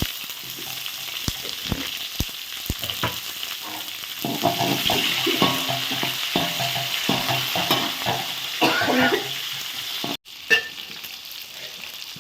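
Sliced onions sizzling in hot oil with a tempering of mustard seeds, urad dal, dried red chillies and curry leaves, while a ladle stirs them and scrapes the pan. The sound breaks off briefly just after 10 seconds, then the sizzling carries on.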